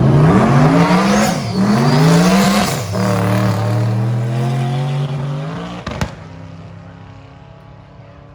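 Drag car accelerating hard down the strip: the engine note climbs, drops at a shift, climbs again and shifts again within the first three seconds, then holds and fades. A sharp click about six seconds in, after which only a quieter steady engine sound remains.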